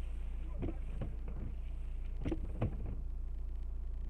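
Steady low drone of a car's engine and road noise heard from inside the moving car, with a few short muffled sounds about a second in and again around two and a half seconds.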